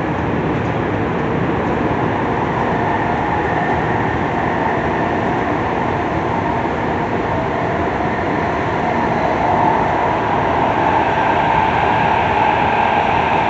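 Running sound of a Tokyu 3000 series electric commuter train with a Hitachi IGBT inverter drive, heard from inside the passenger car. A steady rolling noise carries a motor tone that grows louder through the second half.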